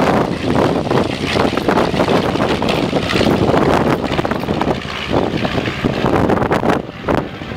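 Aircraft engine noise mixed with gusty wind buffeting the microphone, loud and fluttering, easing briefly near the end.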